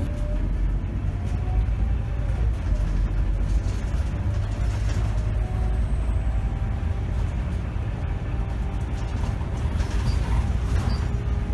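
Diesel engine and drivetrain of a 2010 Scania K270 city bus running on the road, a steady deep rumble with a faint engine note slowly rising and falling.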